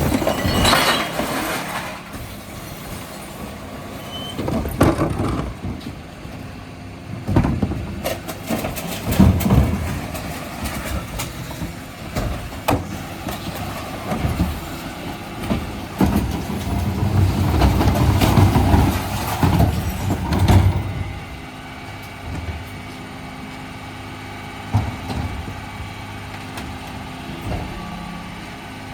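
Dennis Elite 6 refuse lorry running during a recycling collection, with scattered knocks and clatters. A louder spell of rumble and clatter comes a little past the middle and lasts a few seconds.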